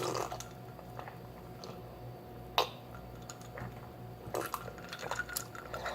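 A person drinking water: quiet swallows and handling, with a few small clicks and knocks of the drinking container, the sharpest about two and a half seconds in.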